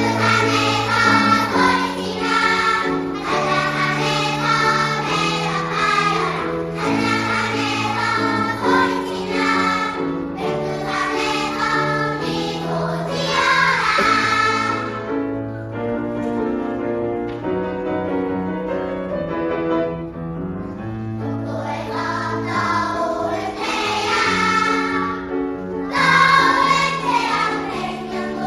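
A choir singing a piece in sung phrases. About halfway through, the high voices drop away for a few seconds, leaving softer held notes, and then the full choir comes back in.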